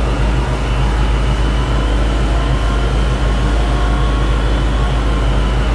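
Ford 460 big-block V8 with Edelbrock Pro-Flow 4 fuel injection idling on an engine dyno: a steady low rumble with no revving.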